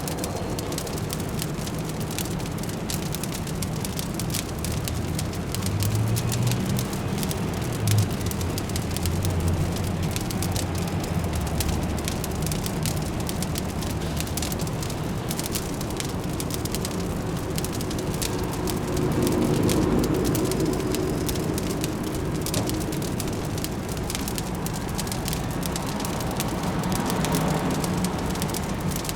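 Fireplace crackling with many small quick pops, over a steady low city hum that swells twice.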